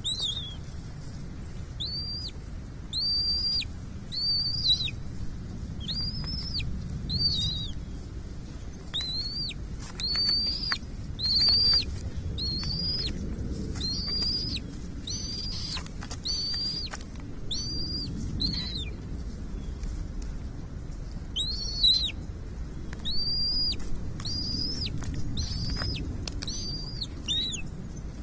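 Bald eagle giving a long series of short, high, thin calls, about one a second. Each call rises, holds and drops away, with a pause about two-thirds of the way through. A steady low rumble runs underneath.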